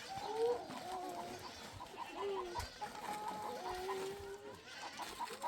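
Chickens clucking and calling, many short calls overlapping.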